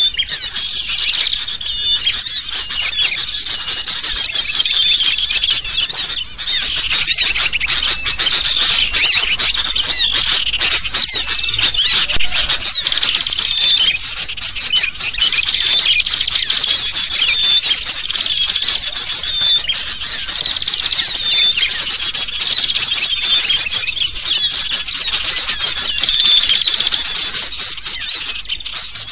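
A dense, continuous chorus of agitated sooty-headed bulbul (kutilang) calls mixed with the chirps of small birds, a bird-luring recording. A call phrase repeats every two to three seconds over a steady background of high chirps, and the chorus fades out near the end.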